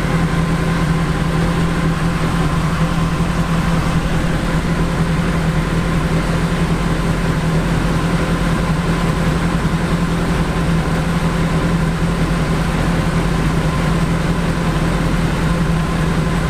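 BAC Mono single-seater's engine idling steadily with an even low hum.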